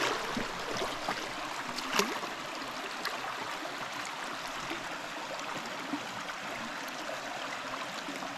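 Creek water running over rocks in a steady babble, with one sharp knock about two seconds in.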